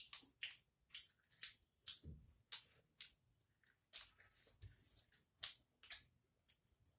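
Faint, irregular wet clicks of close-miked chewing and lip smacking, one or two a second.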